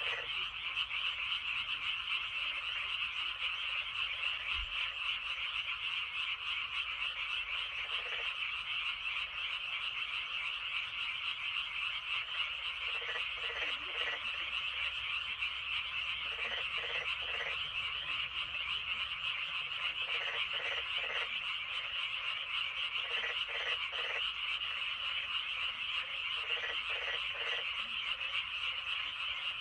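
Dense chorus of many frogs calling from a flooded rice paddy: a steady, high, massed trilling, broken every few seconds by short series of lower croaks.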